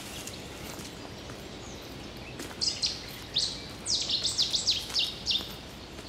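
A small songbird singing one quick phrase of high, short notes, several of them sweeping down in pitch, starting about two and a half seconds in and lasting about three seconds, over a steady outdoor background hiss.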